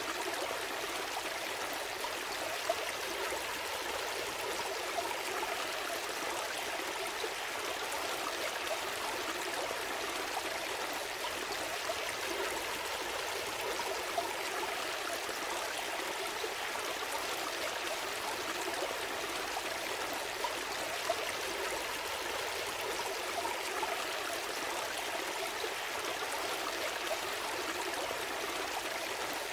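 Small stream flowing and trickling steadily, with no deep rumble and occasional brief splashes or drips standing out.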